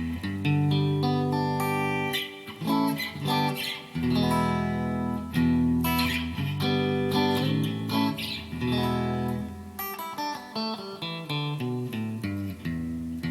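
Yamaha Pacifica PAC012 electric guitar on its neck-and-middle pickup setting (switch position 4), played as a mix of strummed chords and picked single-note lines. It sounds a little out of tune.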